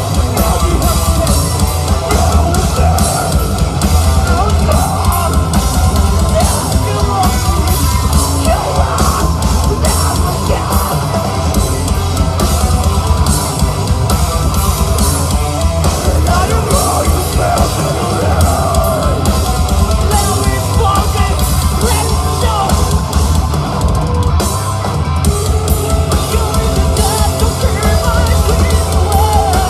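Rock band playing live at full volume: a drum kit beating steadily under guitar.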